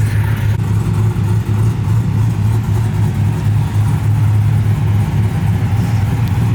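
Cammed Chevrolet Silverado V8 idling steadily, its low note wavering slightly.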